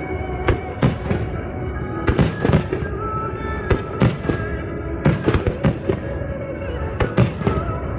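Fireworks shells bursting in quick succession, with many sharp bangs a fraction of a second to a second apart, over music.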